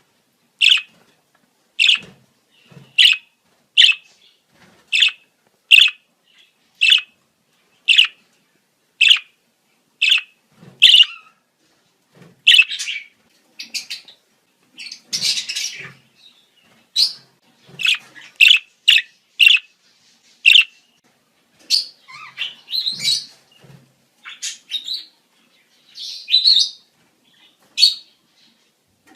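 Budgerigars giving breeding-season calls: sharp chirps repeated about once a second, then from about twelve seconds in a busier, irregular run of mixed chirps and chattering calls.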